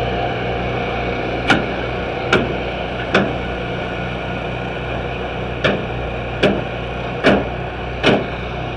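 Hammer blows, seven sharp strikes in two runs of three and four, each about a second apart with a pause between runs, over a steady low mechanical hum.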